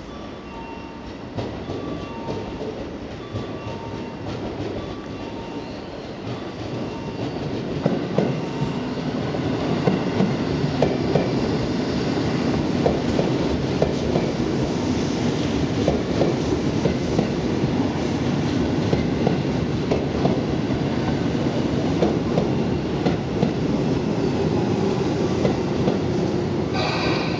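Tobu 10000 series electric train arriving at a station, its wheels clicking over rail joints and points and its running gear rumbling, growing louder from about eight seconds in as the cars pass close by. A repeating two-note tone sounds during the first few seconds, and there is a brief hiss near the end.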